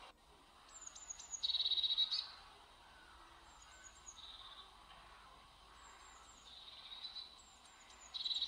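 A songbird singing the same short phrase over and over, roughly every two to three seconds: a few quick, high, falling notes, then a loud buzzy trill, over a faint background hiss.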